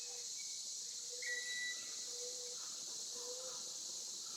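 Steady high hiss of outdoor ambience, with a short whistled note about a second in and a faint wavering low tone underneath.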